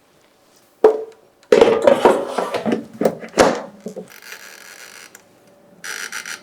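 Air fryer basket and food being handled: a single knock about a second in, then a couple of seconds of clattering and scraping. A quieter steady sound and a brief hiss follow near the end.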